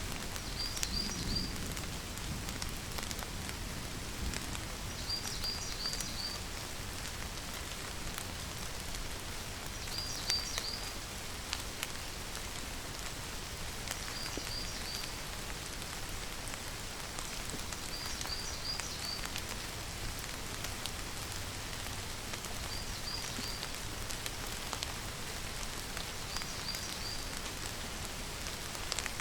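Steady rain falling, with scattered drop ticks. A high chirping call of three or four quick notes repeats about every four seconds over the rain.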